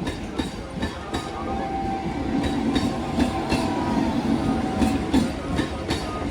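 Train running through the station, its wheels clacking over the rail joints in a steady series of sharp clicks over a low rumble, with a brief thin squeal about two seconds in.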